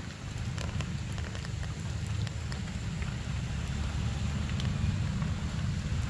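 Steady rain, with scattered individual drops ticking, over a constant low rumble.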